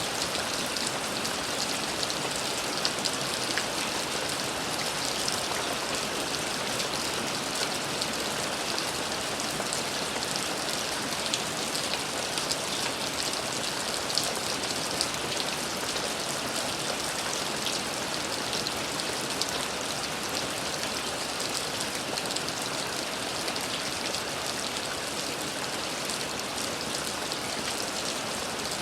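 Steady rain falling, a dense even hiss of drops with individual drops ticking on a surface and a few slightly louder drops now and then.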